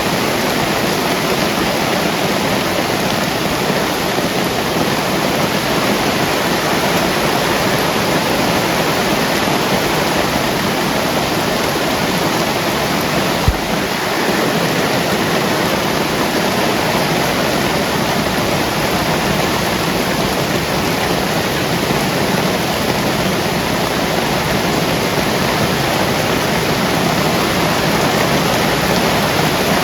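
Heavy rain pouring down in a steady, even rush, with one brief low thump about halfway through.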